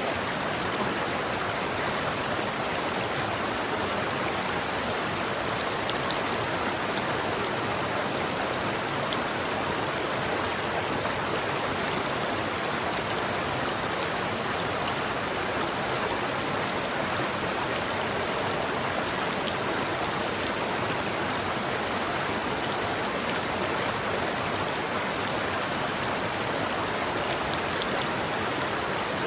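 River water flowing over rocks: a steady, even rushing with faint splashes.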